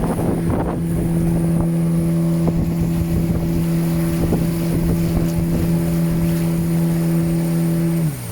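A motorboat engine runs at a steady, even pitch, with wind buffeting the microphone in the first second. Near the end the engine note drops as the motor slows.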